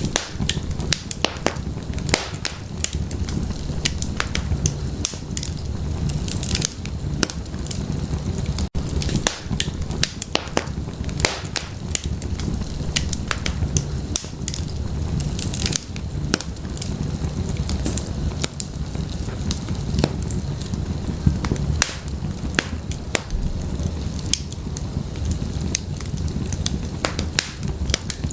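Wood fire burning in an open stone fireplace: a steady low rumble of flames with frequent irregular sharp crackles and pops from the burning firewood.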